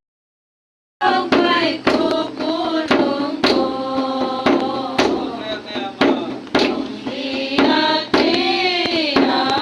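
About a second of silence, then voices singing, with hand claps keeping a steady beat about twice a second.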